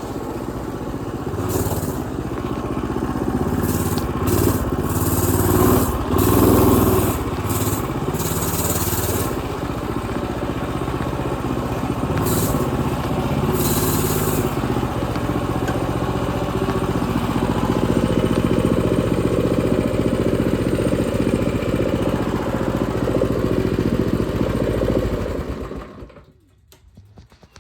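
Mini bike's Predator 212 single-cylinder four-stroke engine running while riding, engine speed rising and falling, with several short hissing bursts in the first half. The engine sound drops away abruptly near the end.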